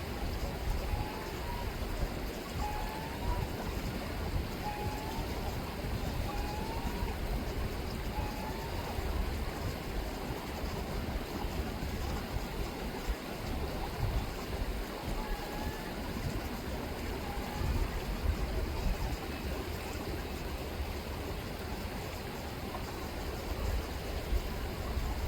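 River water rippling steadily. Gulls give short mewing calls, one every second or two through the first nine seconds and a couple more around the middle. A low, uneven rumble sits underneath.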